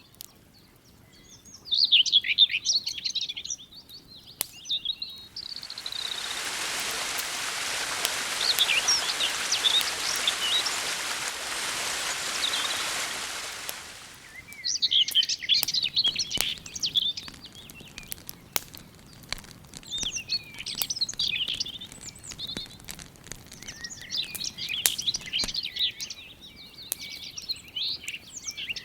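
Small birds singing and chirping over sharp crackling pops from a campfire. For about nine seconds in the middle a steady rushing hiss rises up and then drops away.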